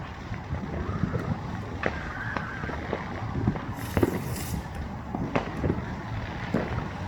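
Scattered firework bangs and pops over a steady low rumble, with a brief hissing burst about four seconds in.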